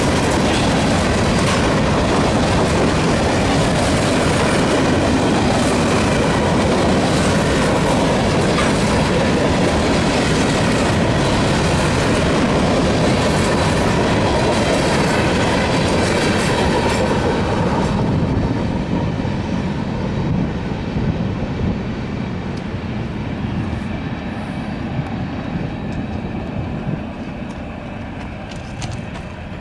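Freight train's covered hopper cars rolling past over a grade crossing, wheels clacking and rumbling. About eighteen seconds in the sound drops suddenly to a fainter, fading rumble as the end of the train moves off.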